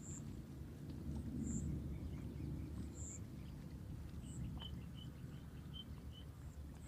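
Small birds chirping: single short high chirps every second or so, then a quick run of five or six short, lower notes in the second half, over a low steady background rumble.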